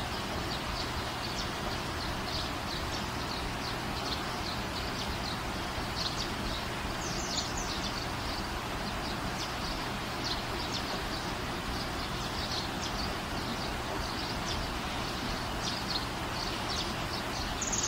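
Small birds chirping, many short high calls coming irregularly over a steady background hiss and faint low hum.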